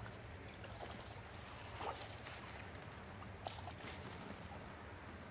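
Light rain falling, a faint even hiss, with a few brief soft splashes or clicks and a low steady hum underneath.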